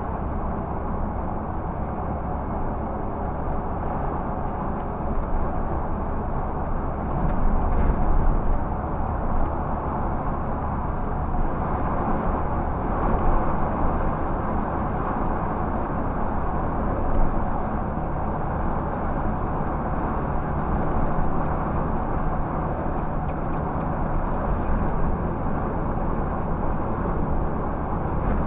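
Scania 360 bus under way, its diesel engine running with a steady low hum under road and tyre noise.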